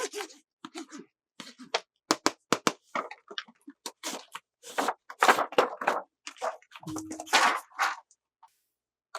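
Plastic toys and packaging being handled: a run of sharp clicks and knocks, with crinkling rustles in the middle and near the end.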